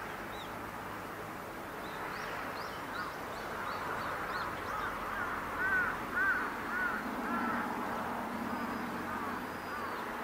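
Birds calling: a run of short high chirps, then a series of louder arched calls about halfway through, over a steady background hiss. A low steady rumble comes in during the second half.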